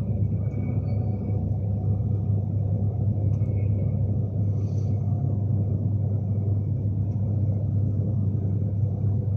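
Steady low rumble of a Class 390 Pendolino electric train running, heard from inside the carriage.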